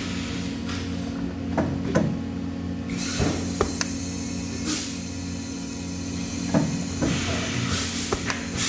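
Workshop machine hum, steady and low, with scattered clicks and knocks and a few short hisses.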